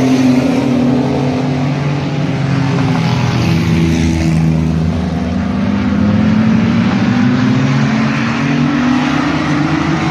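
Several mini truck race engines running hard around the track together, their pitches rising and falling as the trucks work through the turns and straights.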